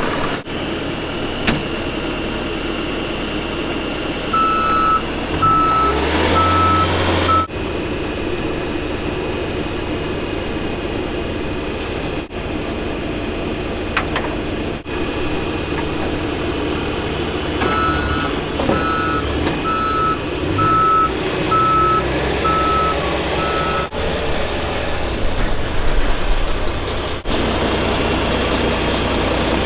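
A diesel work machine's engine running steadily, with its reversing alarm beeping at a steady pitch about twice a second in two spells as it backs up.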